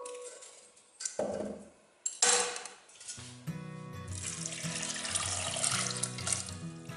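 Water poured from a stainless-steel pot into a pressure cooker holding cut potatoes: a steady splashing pour from about three and a half seconds in. Before it there are two short knocks, about one and two seconds in, as potato halves drop into the cooker. Background music plays throughout.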